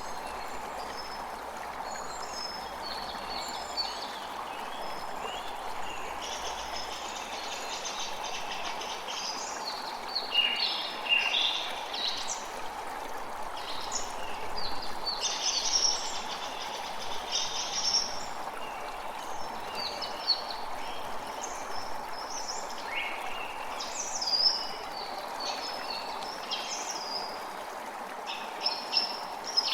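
A creek flowing steadily, with songbirds chirping and calling over it, busier after the first few seconds.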